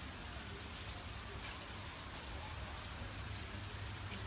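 Steady rain falling, with many small raindrop ticks scattered through it.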